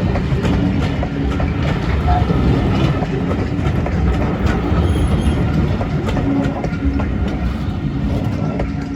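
Diesel-hauled heritage train passing, a loud steady rumble with the wheels clicking over the rail joints, easing off near the end.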